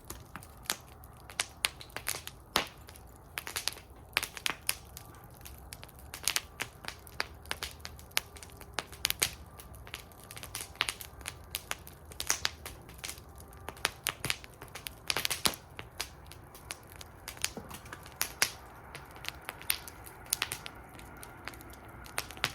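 Wood fire burning in a metal fire bowl, crackling and popping with irregular sharp snaps over a low steady rumble of flame.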